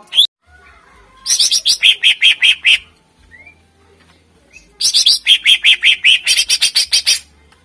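Cucak ijo (green leafbird) singing. Two loud bursts of rapid, sharp repeated notes, about six a second, each lasting one and a half to two and a half seconds, with a few short single upslurred notes between them.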